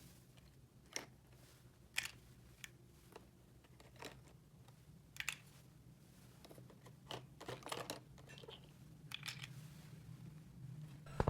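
Small plastic toy pieces being handled, giving scattered light clicks and taps, a little busier a few seconds before the end, over a faint steady low hum.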